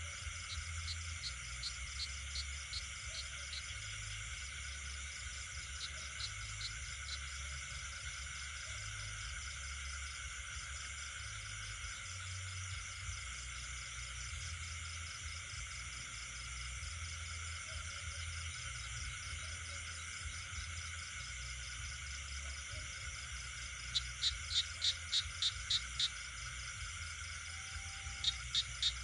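Night chorus of crickets and other insects with frogs: steady layered high trilling, over which a caller gives runs of loud, sharp repeated calls, about four a second, near the end and again just before the end.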